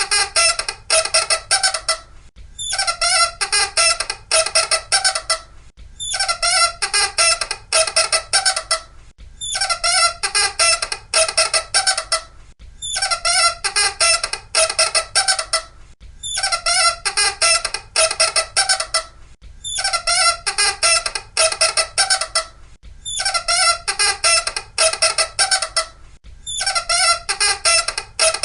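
Loud, high-pitched squeaking in a rapid run of squeaks, repeated in bursts of about two and a half seconds roughly every three and a half seconds, about eight times.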